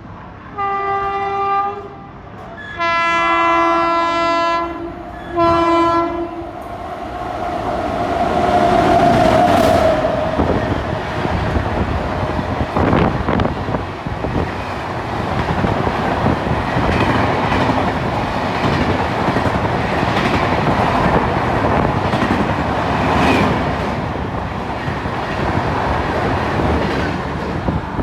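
Indian Railways train horn sounding three blasts, the middle one longest, followed by the loud, steady rumble and clickety-clack of the express train's wheels running fast over the track.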